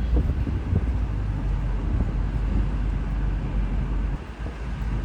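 Moving car: a steady low rumble of engine and road noise, dipping briefly about four seconds in.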